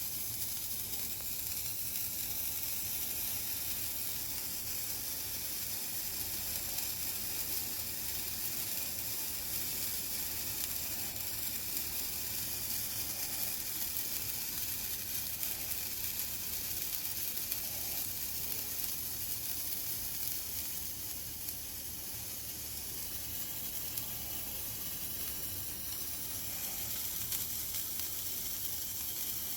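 Handheld firework burning with a steady hiss.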